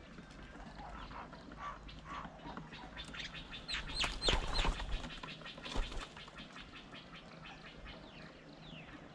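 Several birds calling and chirping, with a louder cluster of quick calls and a few sharp knocks about four to six seconds in.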